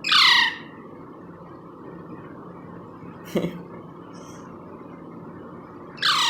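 Indian ringneck parrot chick giving two short, loud, falling squawks, one right at the start and one near the end, with a brief sharp sound in between.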